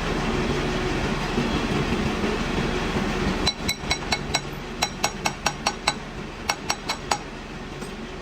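A lathe runs with a steady hum that drops away about three and a half seconds in. Then come about sixteen quick, ringing metal taps in three short runs.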